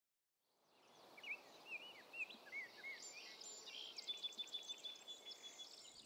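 Wild birds chirping and calling, faint and fading in about a second in: short up-and-down chirps at first, then quicker, higher notes and a steady trill, over a soft outdoor hiss.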